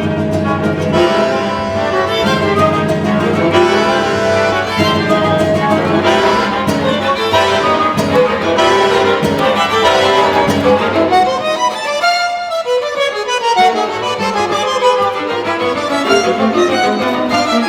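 Fast tango nuevo chamber music played live by a string quartet with bandoneon and guitar, the violins prominent. About twelve seconds in, the low instruments drop out briefly before the full ensemble returns.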